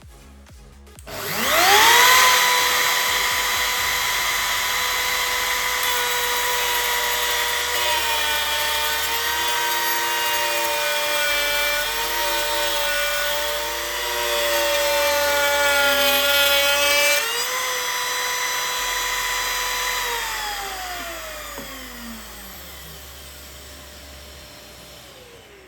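Electric router motor spinning up to a steady high whine, cutting wood for several seconds with its pitch dipping and wavering under load, then running free and winding down after being switched off.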